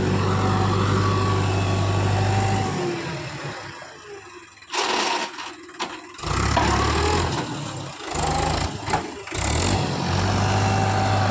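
Mahindra tractor's diesel engine running and revving. It fades about three seconds in, then comes back loud in short pieces that start and stop abruptly.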